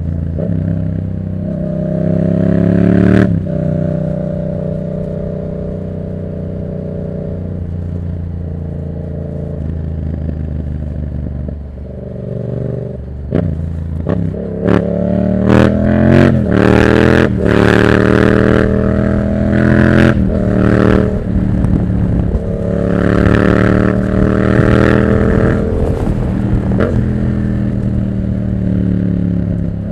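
2024 Yamaha MT-07's 689 cc parallel-twin engine through a Black Widow exhaust with no dB killer, revving up about three seconds in, then holding a steady cruise. In the second half it climbs through the revs again and again, with a run of sharp cracks around the middle.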